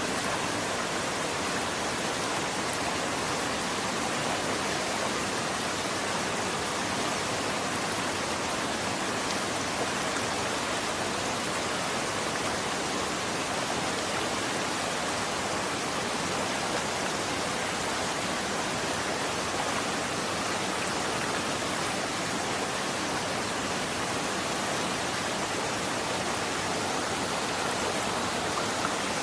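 Running water flowing in a steady, even rush, with no separate splashes or drops standing out.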